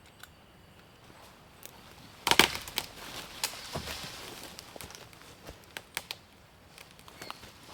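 Wood cracking and knocking: one loud crack a little over two seconds in, followed by a crackly stretch and scattered smaller snaps and clicks.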